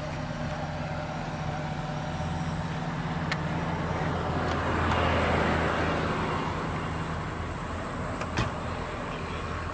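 A vehicle engine runs steadily at idle while road traffic swells past, loudest about five seconds in, then fades. A couple of faint clicks are heard.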